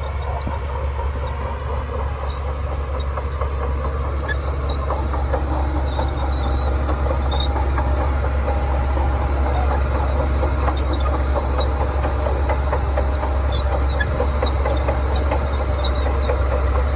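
Shantui DH17C2 crawler bulldozer working: its diesel engine runs steadily with a deep hum, under a dense metallic clatter typical of steel crawler tracks, growing a little louder over the first few seconds.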